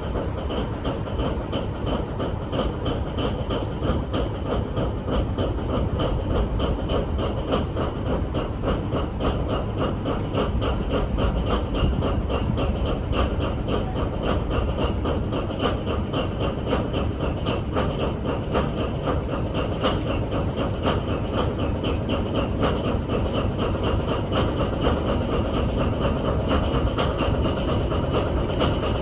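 Paxman VP185 V12 diesel engine of a Class 43 HST power car running steadily after a cold start, a fast even beat of firing with a steady high whine over it.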